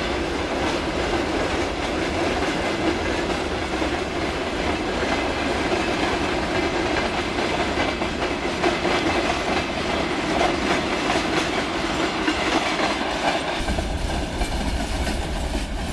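Freight train rolling past steadily, its wagon wheels clacking over the rail joints.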